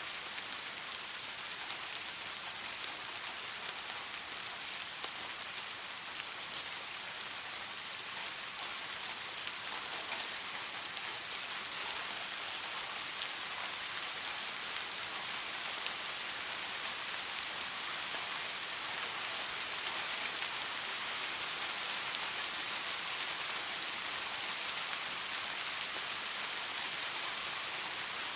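Soft rain falling steadily: an even hiss of rain with faint scattered drop ticks.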